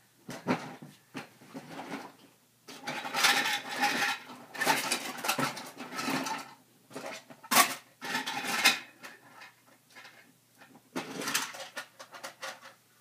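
Hard plastic toys and action figures clattering and rattling against each other as someone rummages through a pile of them, in several bursts with short pauses between.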